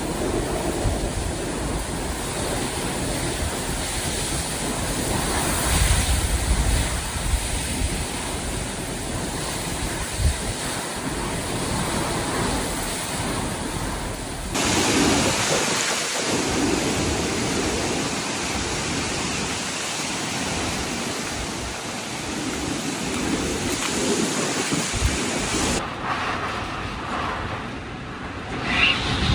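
Typhoon storm noise: strong wind and rain, dense and steady, in a few clips that change abruptly about halfway through and again near the end.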